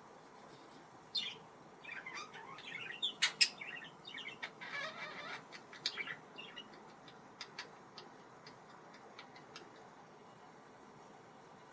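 Budgerigar chattering in short warbling chirps mixed with sharp beak clicks for about five seconds, then a few scattered clicks.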